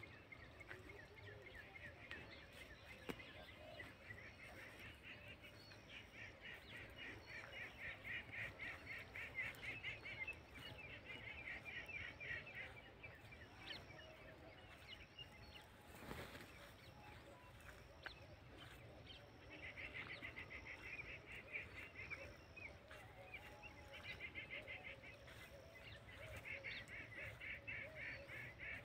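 Birds calling in several bouts of rapid, chattering notes lasting a few seconds each, with a single sharp click about halfway through.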